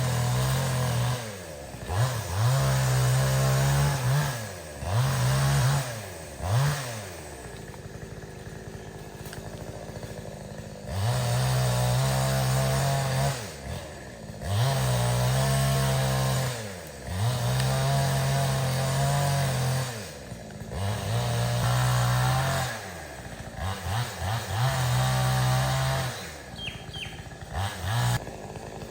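Two-stroke chainsaw revved to full throttle in repeated bursts of one to two seconds, dropping back to idle between them as it works through a tree, with a few quick throttle blips near the end.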